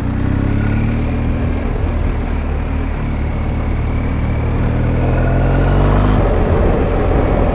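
BMW R1250 GS Adventure's boxer-twin engine running on the move, its pitch easing slowly down, then climbing again about six seconds in, over a steady rushing noise.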